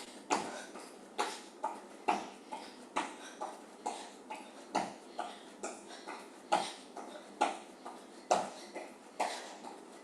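Sneakered feet landing on the floor in jumping jacks, a heavier thud about once a second with lighter landings between, mixed with sharp breaths of effort.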